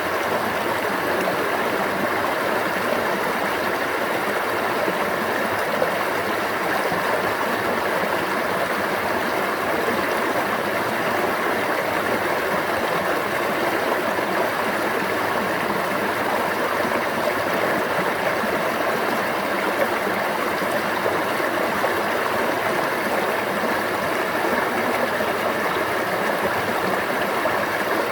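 Water running in a stream, a steady, even rushing babble.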